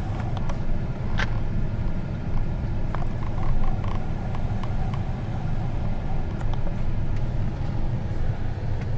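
Vehicle engine running with a steady low rumble, heard from inside the cab, with a few faint clicks and creaks.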